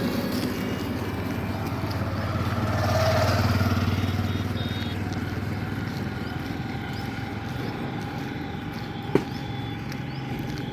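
Motor vehicle running along the road, a steady engine hum with road noise, swelling for a couple of seconds about three seconds in, with one sharp click near the end.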